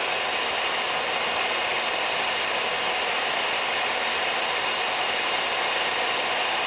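Steady drone of a Mooney M20K's turbocharged piston engine and airflow heard inside the cabin in cruise flight, an even hiss-like noise with faint steady tones that does not change.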